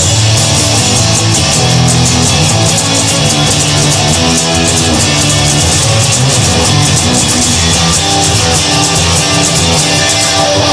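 Instrumental break of a rock song: electric guitar and bass over a drum kit with steady cymbal hits, no vocals.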